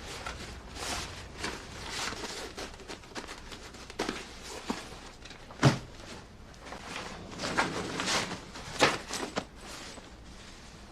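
Irregular footsteps and light knocks, with one louder thump about halfway through and a few more knocks near the end.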